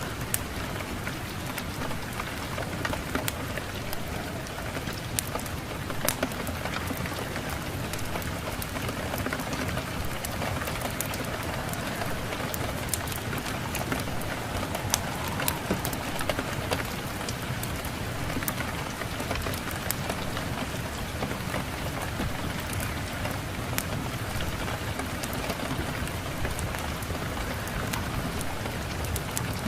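Steady rain with scattered sharp pops and crackles, as from burning firewood in a fireplace.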